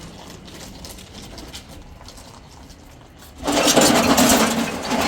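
A motor starts up abruptly about three and a half seconds in and then runs loudly and steadily.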